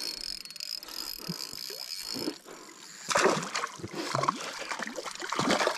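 A hooked mackerel thrashing and splashing at the water's surface beside the boat, in several irregular bursts from about three seconds in.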